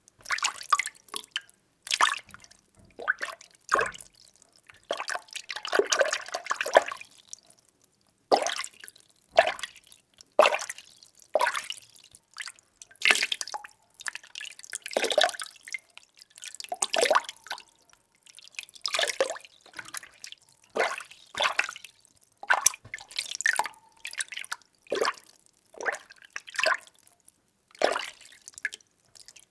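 Water being stirred, sloshing and splashing in short irregular strokes about once a second.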